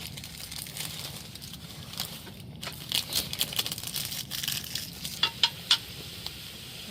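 Irregular crinkling and small sharp clicks as cooking things are handled during meal preparation, with a few clusters of clicks about three and five seconds in.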